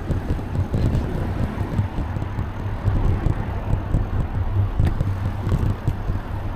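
Wind buffeting the microphone of a camera riding on a moving bicycle, a steady fluctuating rumble.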